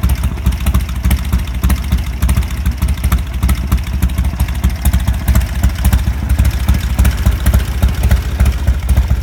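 1987 Harley-Davidson FXRP's Evolution V-twin, fitted with an Andrews EV27 cam, idling steadily with an even low pulsing beat.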